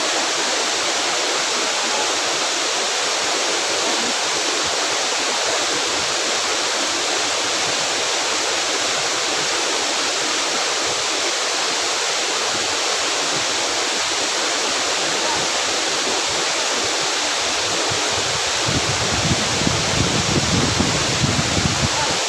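Rushing water of a waterfall: a steady, even hiss. A low, uneven rumble joins it about three seconds before the end.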